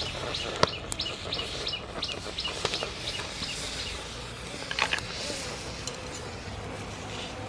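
A bird chirping in quick repeated high notes for the first few seconds, over scattered sharp clicks, with a louder cluster of clicks about five seconds in.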